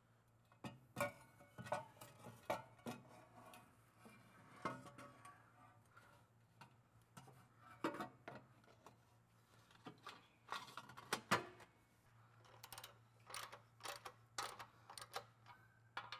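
Scattered clicks, taps and metallic clanks of hand tools and exhaust parts being worked on, irregular and sparse, over a faint steady hum.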